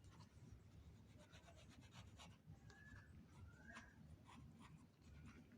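Faint scratching and rustling, with two short rising bird chirps a little after the middle.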